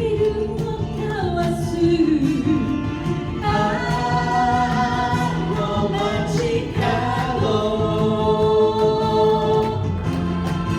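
Live pop song with vocals holding long sustained notes over a steady band backing.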